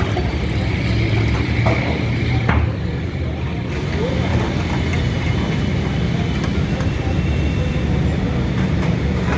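Busy street ambience: a steady rumble of road traffic with people's voices in the background, and a couple of sharp clicks about two seconds in.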